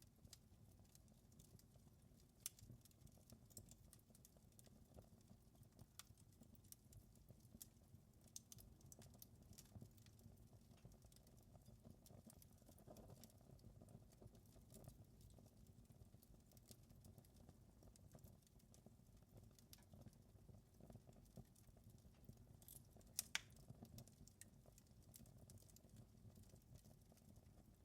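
Wood fire crackling faintly: irregular small pops and snaps over a low steady rumble, with a sharper double pop late on.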